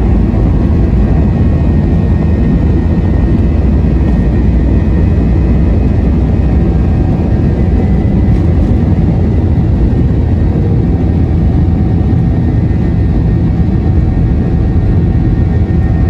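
Airbus A321-231's IAE V2500 turbofan engines running, heard from inside the passenger cabin: a loud, steady low rumble with a few steady whining tones above it.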